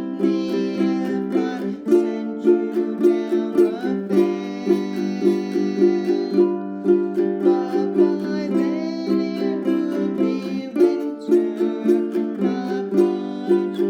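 Ukulele strummed in a simple shuffle strum, changing between C, D minor, G7 and F chords, with a voice singing along.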